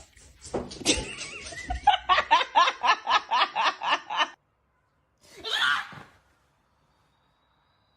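A person laughing hard in a quick run of ha-ha pulses, about four to five a second, which stops about four seconds in. A single short voiced sound follows a second later.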